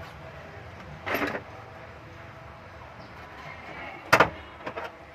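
Workshop handling noises: a short rattling clatter about a second in, then a sharp knock a little after four seconds, followed by two lighter clicks, over a steady background hum.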